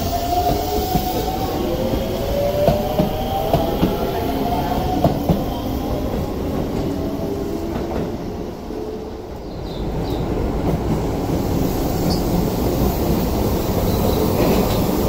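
Hokuso Railway electric commuter train's traction motors whining and rising in pitch as it pulls away, with a few sharp clacks of wheels over rail joints. After a brief dip, there is the steady rumble and rail noise of another train approaching.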